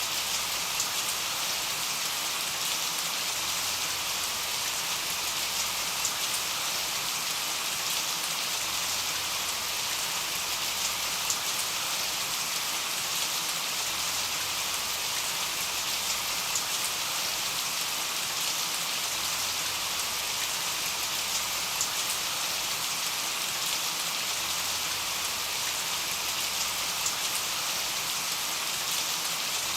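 Steady rain with scattered drop ticks.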